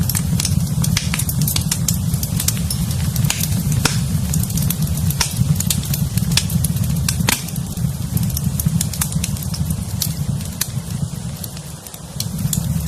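Fireplace fire crackling, with sharp irregular pops over a steady low rumble that dips briefly near the end.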